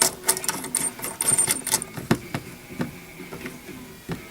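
Small metal mirror-mounting parts clicking rapidly as they are threaded together by hand, followed by a few separate knocks.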